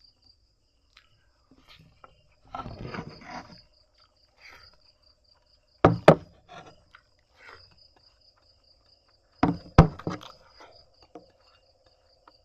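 Crickets chirping steadily at night, with a noisy scuffle about three seconds in and two clusters of sharp knocks, near six and ten seconds in, that are louder than the chirping.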